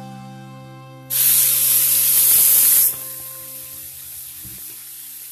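Wet blanched cassava leaves hitting hot oil in a wok: a sudden loud sizzling hiss starts about a second in, lasts about two seconds, then settles to a quieter sizzle. Background music plays throughout.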